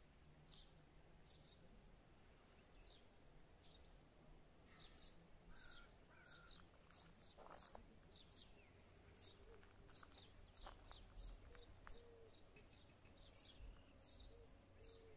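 Faint birdsong: many short, high chirps repeating over a quiet outdoor background, coming more often in the second half, with a few lower whistled notes mixed in.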